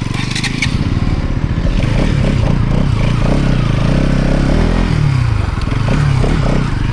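A motorcycle engine running close by, its revs rising and falling several times, with a few light metallic clicks about a second in.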